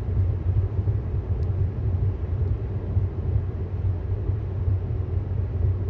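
Steady low road and tyre rumble heard inside the cabin of a moving 2018 Tesla Model S 75D, with no engine note.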